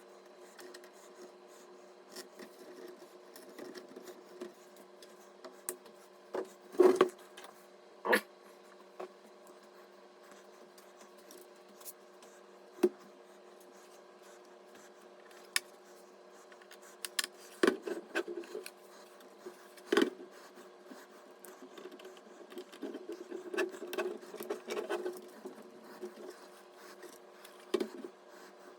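Scattered sharp clicks, taps and knocks of computer hardware being handled during assembly, with some rubbing and scraping, over a steady faint hum. The loudest knocks come about seven and eight seconds in and again around twenty seconds.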